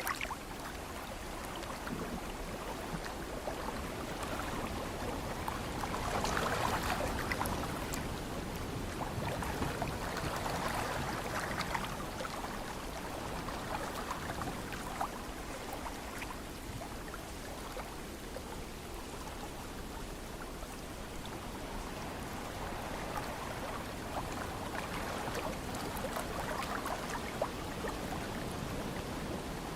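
Ocean surf washing in, a steady rush of water that swells louder a few times as waves break.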